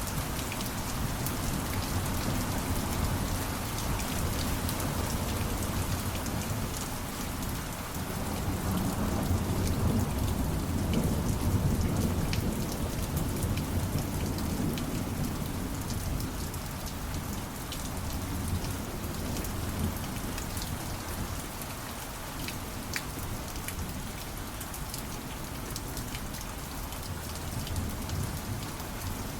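Steady rain falling, with scattered individual drops, and a low rumble of distant thunder that swells and fades about a third of the way in.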